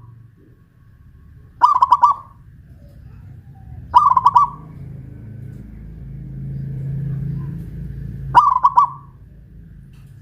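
Zebra dove (perkutut) singing: three short, rapidly pulsed cooing phrases, a couple of seconds apart.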